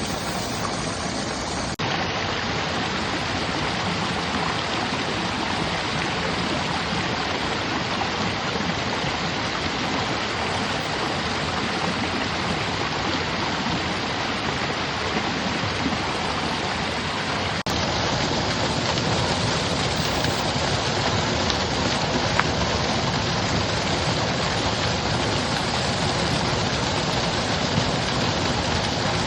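Mountain stream water rushing steadily over rocks. The sound changes abruptly twice, about two seconds in and about eighteen seconds in, and is a little louder after the second change.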